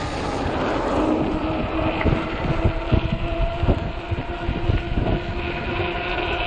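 Wind buffeting the microphone of a moving 48 V fat-tire e-bike, over a steady hum from the bike and irregular low thumps.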